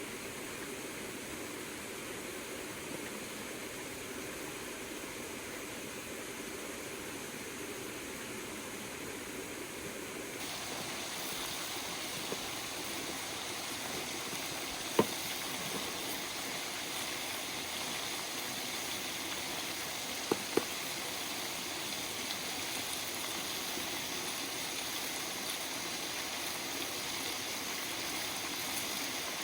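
River water flowing as a steady rushing hiss, which shifts abruptly about ten seconds in to a brighter, slightly louder rush. A few sharp clicks cut through it: one about halfway through and a close pair a few seconds later.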